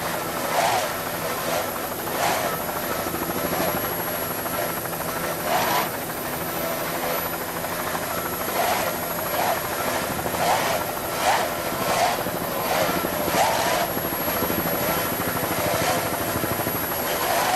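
Steady engine drone with short surges coming every second or so.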